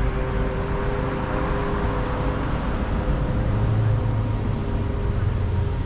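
City street traffic: motor vehicles running past with a steady rumble, growing stronger about halfway through as a heavier engine comes close.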